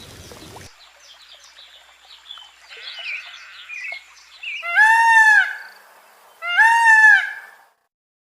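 Small birds chirping faintly, then two loud, drawn-out animal calls a little under two seconds apart, each rising and then falling in pitch.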